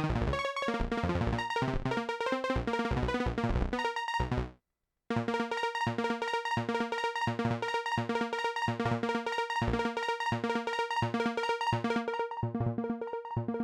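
Experimental electronic music made with Ableton Live's built-in instruments: fast, repeating pitched synth notes over a low pulse. It cuts out completely for about half a second near the start, then comes back, and its top end thins out near the end.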